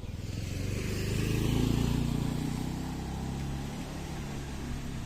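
A motor vehicle's engine running close by, getting louder to a peak about a second and a half in, then fading as it passes.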